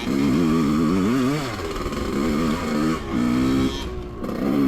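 Dirt bike engine running under throttle as it is ridden, its pitch wavering up and down quickly at first and then holding steadier with brief dips.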